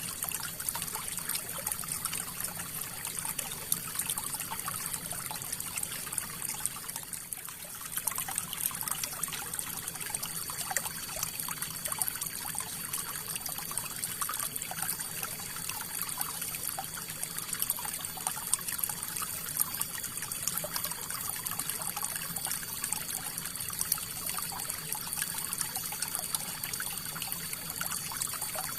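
River water flowing: a steady rush of running water full of small, quick droplet sounds, dipping slightly about seven seconds in. A faint steady high tone runs beneath it.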